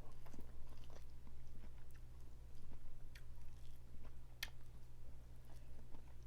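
Close-miked chewing and mouth sounds of a person eating a seafood boil, with scattered small clicks and one sharper click about four seconds in, over a steady low hum.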